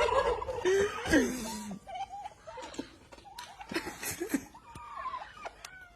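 Turkeys gobbling and calling, a loud run of rapid warbling calls in the first couple of seconds, then scattered shorter calls.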